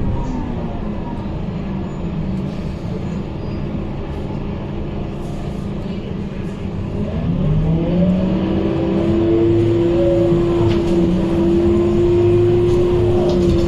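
Scania K230UB bus running with a loud radiator cooling fan: a whining drone that falls away near the start, then rises again about seven seconds in, as the bus pulls away, and holds steady over the engine rumble.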